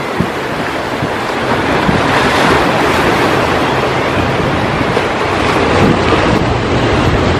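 Ocean surf breaking and washing in steadily, with wind gusting over the microphone.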